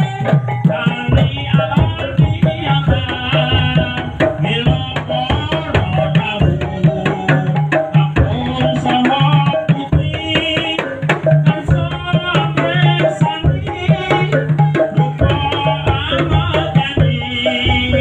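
Topeng Ireng dance music: hand drums beating a busy, steady rhythm under a wavering melodic line, played continuously.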